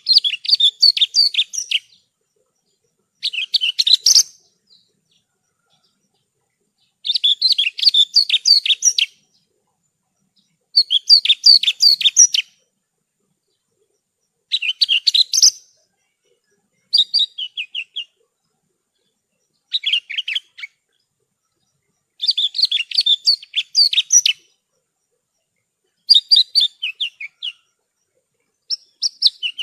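Javan bush lark (branjangan) singing in short bursts of rapid, high chirping notes. There are about ten phrases, each a second or two long, separated by brief silences.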